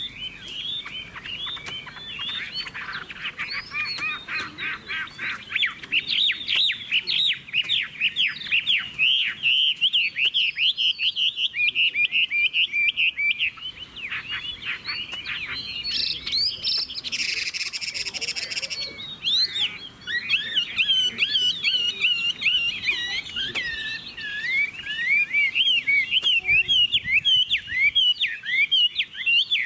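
Chinese hwamei singing continuously: a fast, varied song of whistled notes with rapid up-and-down pitch swoops, and a brief hissing stretch a little past the middle.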